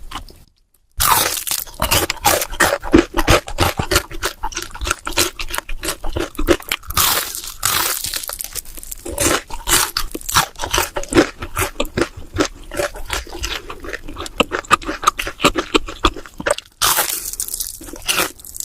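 Close-miked mukbang eating: a person chewing a mouthful of noodles, a dense run of loud, crackly mouth clicks and smacks. The sound cuts out for half a second near the start.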